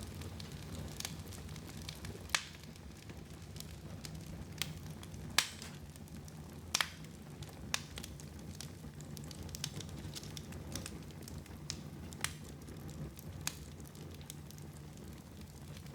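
Wood fire burning in a fireplace: a steady low rumble with irregular crackling and a few louder, sharp pops.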